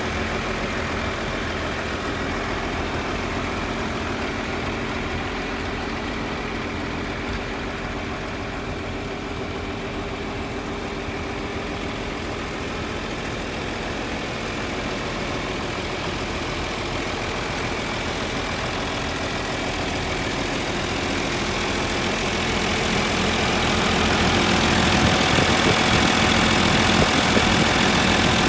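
Tractor engine running steadily at idle, growing louder over the last several seconds.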